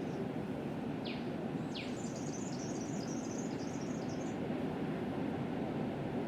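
Steady low rumble of ocean surf, with a bird giving two short, quick descending whistles about a second in, followed by a couple of seconds of high twittering chatter.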